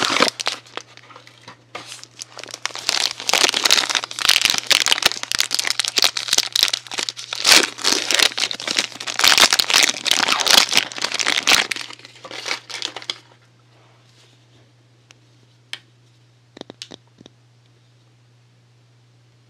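Soap packaging being crinkled and torn open by hand, a dense run of crackling and rustling that stops about thirteen seconds in, followed by a few light clicks.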